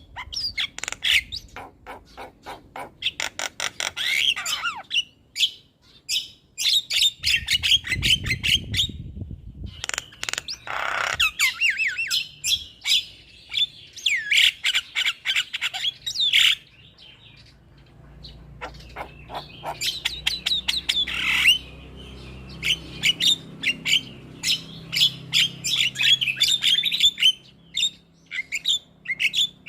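Javan myna singing a fast, harsh chatter of clicks, rattles and squawks in repeated phrases, with brief pauses about five and seventeen seconds in.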